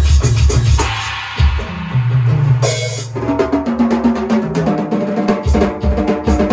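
Drum kit being played over music: a steady run of sharp ticks over a heavy low thump, a brief burst of hiss about two and a half seconds in, then pitched melodic notes joining in.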